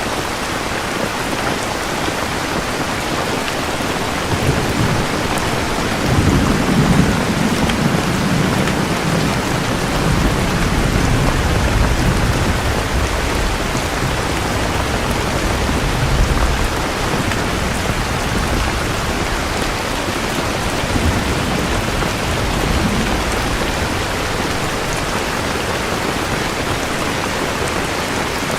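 Steady heavy rain hissing, with low rolling thunder that builds a few seconds in, is loudest a little later, and rumbles on and off through the middle.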